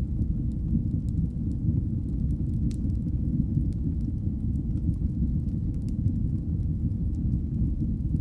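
Fireplace fire burning with a steady low rumble and scattered faint crackles and pops, one slightly sharper pop near the middle.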